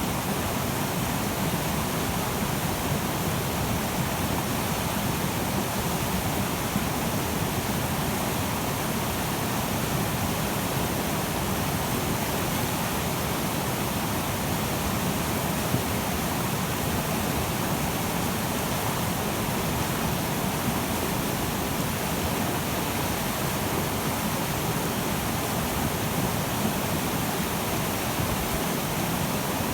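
Glacier-fed river swollen with meltwater, its whitewater rushing in a steady, unbroken hiss.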